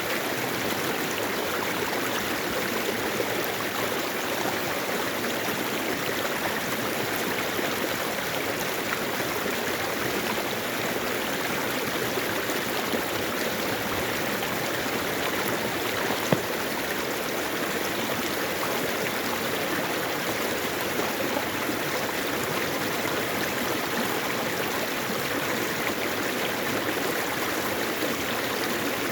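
Mountain valley stream flowing over rocks, a steady rush of water with a single brief click about halfway through.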